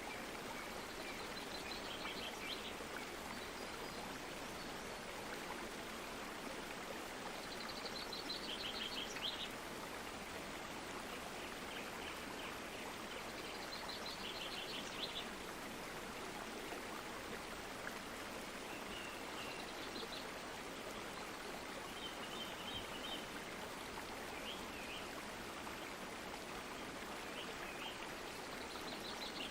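Steady rush of a flowing stream, with short bursts of quick high chirping bird song every few seconds.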